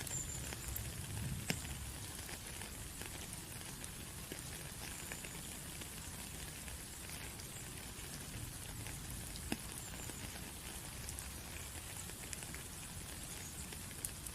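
Steady rain, with single drops ticking sharply now and then; the clearest drops land about a second and a half in and again about nine and a half seconds in.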